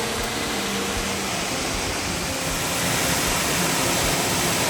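Waterfall rushing: a steady, dense roar of falling water that gets a little louder about three seconds in.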